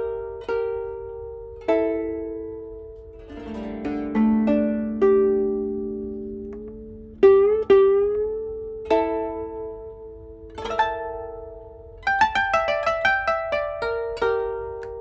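Two kotos playing a duet: plucked notes ring and fade, with a short scraping sound about three seconds in and notes bent upward in pitch around the middle. Near the end the notes come in quick runs.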